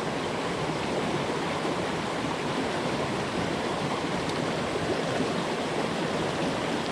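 Steady rush of a rocky jungle stream, water running over stones and small falls.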